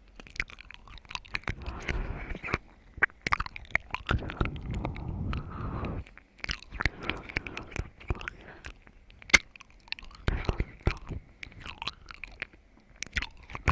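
Close-miked wet chewing and crunchy biting of watermelon, with many sharp mouth clicks and one louder click about nine seconds in.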